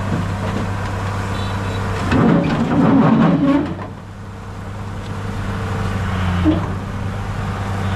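Heavy diesel engine of earthmoving machinery running steadily, with a louder, rougher stretch about two seconds in that drops away near the middle and then slowly builds again.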